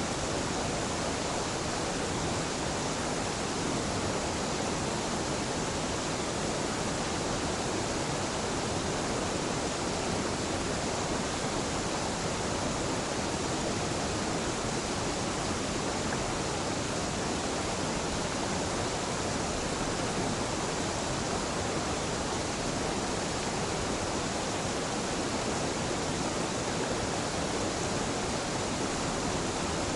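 Mountain waterfall, a gentle one, with falling water rushing in a steady, unbroken wash of noise.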